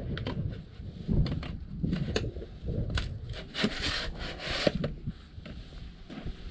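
Parts being handled and fitted together: scattered knocks and clicks, with a scraping slide lasting about a second a little past halfway.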